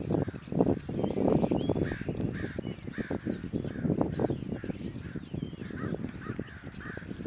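Birds calling over and over, about twice a second, with higher chirps among them, under a loud rough noise that starts suddenly at the beginning and carries on throughout.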